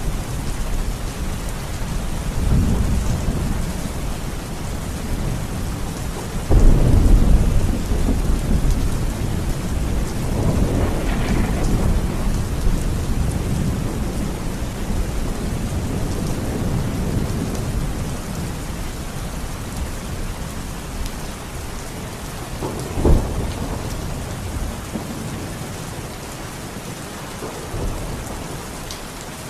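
Steady rain with rolling thunder. A heavy rumble starts sharply about six and a half seconds in and rolls on for several seconds, a short sharp crack comes near the end, and the thunder fades while the rain carries on.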